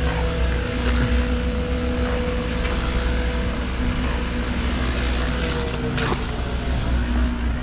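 An engine running steadily with a deep rumble and a steady hum, with a sharp knock about six seconds in.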